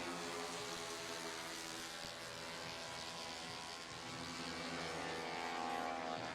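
Engines of 160cc racing scooters running at high revs during a race, a steady pitched drone.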